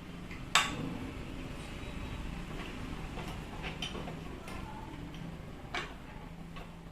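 Hard parts and hand tools clicking and tapping as a rotary hammer is taken apart. A sharp loud click comes about half a second in, a few lighter ticks follow in the middle, and another clear click comes near the end, over a steady low hum.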